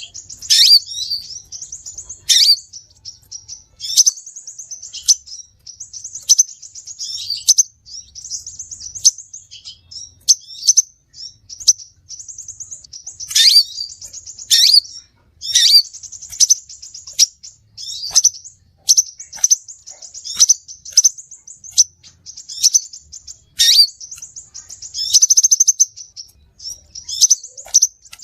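Crimson sunbird (sepah raja) calling: sharp, very high notes that sweep steeply downward, repeated every second or two, joined by rapid buzzy trills, played as a bird-trapping lure call.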